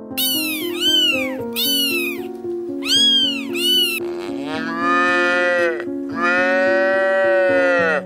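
A cat meows about five times in quick succession, then a cow gives two long moos of about a second and a half each, all over light background music.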